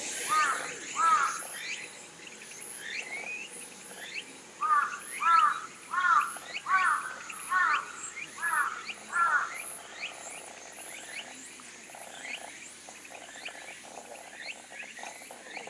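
A bird giving a run of loud, repeated calls: two near the start, then about seven more a little under a second apart. Under them runs a steady, high pulsing chirr of insects.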